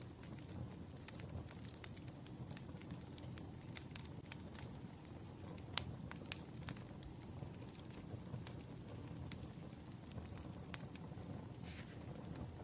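Wood fire burning, crackling with scattered sharp pops over a steady low rumble of the flames; the loudest pop comes about six seconds in.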